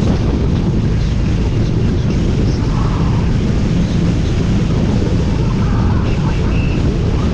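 Motorcycle riding at steady speed: a constant engine rumble mixed with wind rushing over the microphone.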